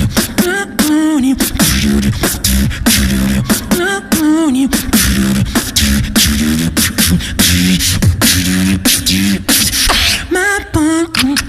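Beatboxing: fast mouth-made kick, snare and hi-hat clicks over a pulsing low bass. A wobbling, warbling pitched voice comes in over the beat three times: near the start, about four seconds in and near the end.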